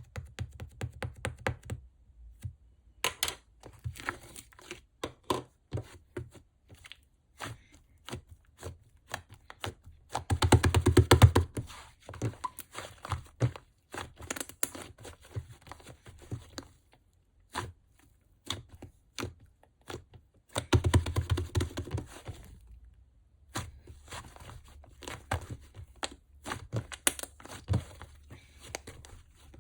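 White slime being squeezed and stretched by hand, making rapid sticky clicks and pops, with two denser, louder spells of crackling about a third and two-thirds of the way through.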